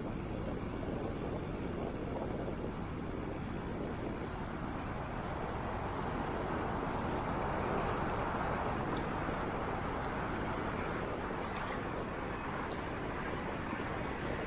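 Steady rushing wind and tyre noise from a moving bicycle, heaviest in the low end and swelling a little about halfway through, with a few faint ticks.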